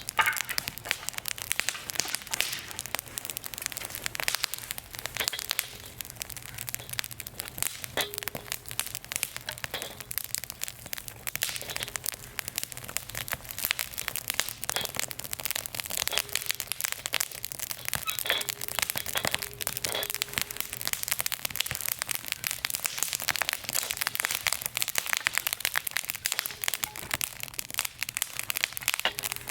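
Wood fire crackling: dense, irregular pops and crackles that go on without a break.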